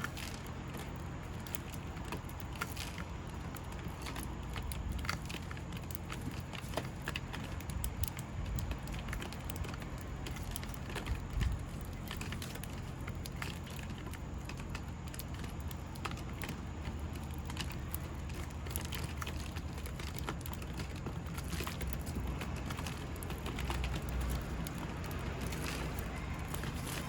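Outdoor ambience: a steady low rumble with scattered small ticks and taps throughout.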